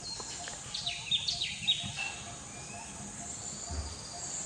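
Golden-fronted leafbird calling: a quick cluster of short, sharp whistled notes about a second in, over a steady high-pitched insect drone.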